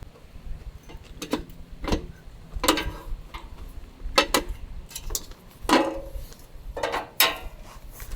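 A series of about a dozen irregular clicks and light knocks, some with a brief ring after them.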